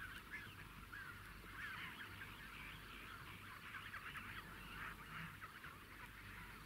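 Birds calling in the distance: a faint, dense run of many short, overlapping calls.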